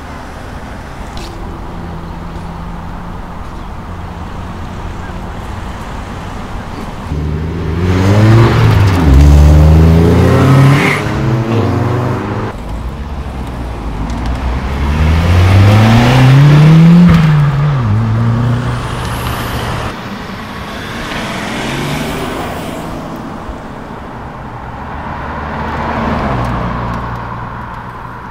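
Car engines idling, then accelerating hard twice as cars pull away, about eight and sixteen seconds in. Each time the pitch climbs and drops back as the revs rise and fall, before the sound fades away.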